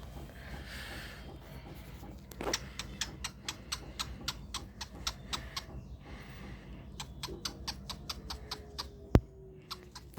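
Rapid sharp clicks from a cockatiel's beak, about five a second, in two runs with a short pause between. One much louder single click comes near the end.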